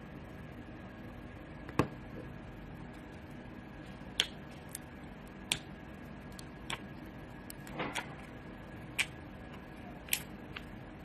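Slime being squeezed and stretched, giving off about eight sharp clicks and pops as trapped air bubbles burst, scattered unevenly over a steady background hum.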